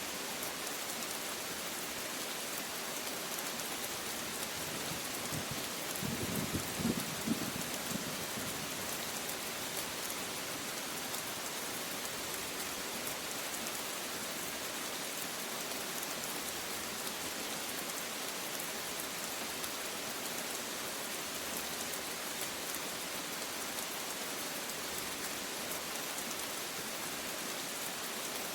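Steady rain falling, an even hiss of drops. About six seconds in there is a short, low rumble of thunder lasting around two seconds.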